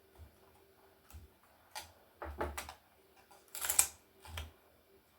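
Laptop casing parts being handled during disassembly: a run of separate plastic and metal clicks and knocks. The loudest is a short rattling scrape about three and a half seconds in, followed by one more knock.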